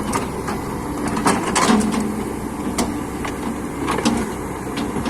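Excavator engine running steadily, with a string of sharp metallic clicks and knocks from the machine and tools being worked on.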